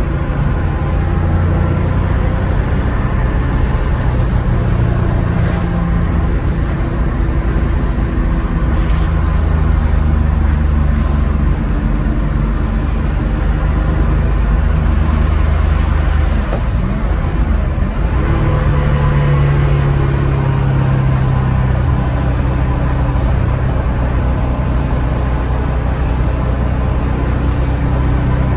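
1970 Porsche 911S air-cooled flat-six engine running steadily. About two-thirds of the way through its note glides and then settles at a higher, steady pitch.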